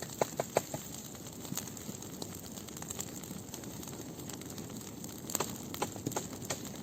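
Dry wood and twigs crackling and snapping irregularly, with a quick run of sharp snaps in the first second and another cluster about five seconds in.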